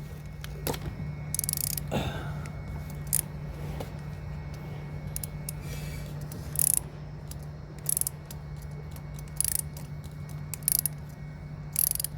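Ratchet wrench with a 24 mm socket turning the oil filter housing of a DSG gearbox loose, its pawl clicking in short bursts every second or two as the handle is swung back. A steady low hum runs underneath.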